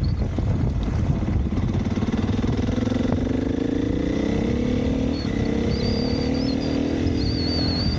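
Dirt bike's single-cylinder engine running, the pitch rising steadily for a few seconds as it revs up, then easing off a little and holding.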